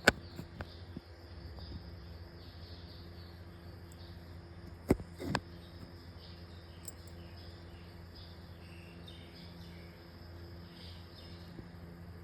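Faint insects chirring in the background over a steady low electrical hum, with a few sharp clicks right at the start and about five seconds in.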